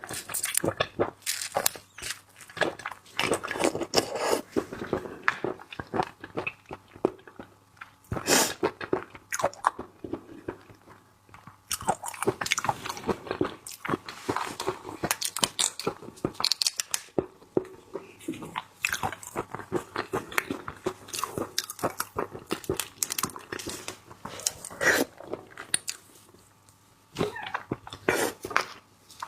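Close-up eating sounds of raw seafood: crunching and biting with rapid cracks and wet chewing, pausing briefly twice.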